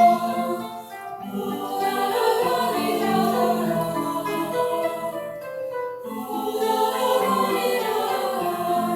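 A school chorus singing long held phrases, with brief breaks between phrases about a second in and again near six seconds.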